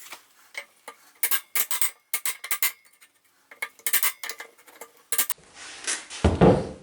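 Irregular sharp clicks and clacks of hard plastic fan fins being snapped and broken off an old air compressor's cooling fan, followed by a heavier thud near the end.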